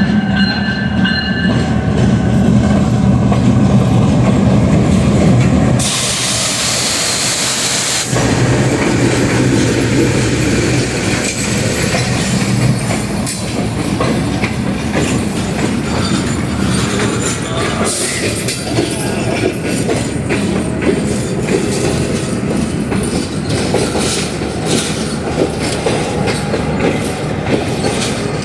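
Diesel-hauled passenger train arriving at a station platform: the locomotive's engine drones low and steady as it passes, a loud hiss cuts in for about two seconds some six seconds in, and then the carriages roll by with a rumble and wheels clicking over the rail joints.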